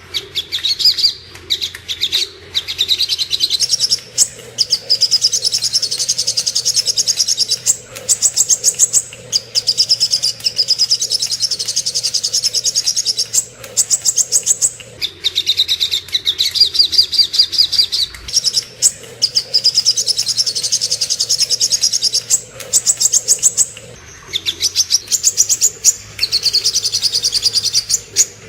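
Sogok ontong (crimson sunbird) song: very fast, high-pitched trilling in phrases of one to three seconds with short breaks between, as used in masteran recordings for training songbirds.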